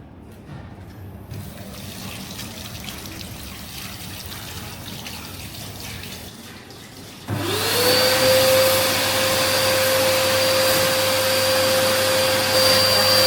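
Low steady hum and hiss, then about seven seconds in an electric-motor machine starts up: a whine rises quickly to a steady high pitch over a loud rushing noise and keeps running.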